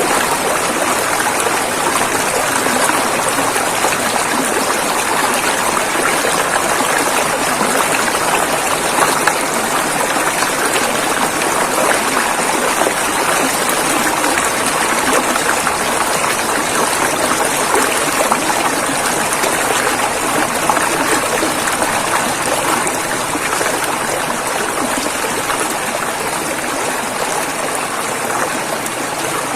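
River water flowing and rushing over rocks, a steady, full rushing sound that does not let up.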